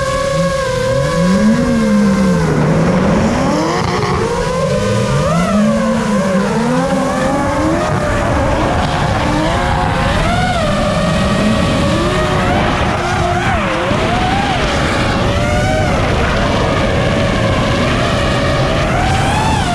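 A drifting car's engine revving up and down over and over as it slides through the turns, with tyre noise underneath.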